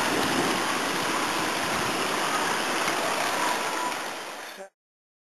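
Heavy tropical rain pouring down in a steady hiss, fading slightly then cutting off abruptly near the end.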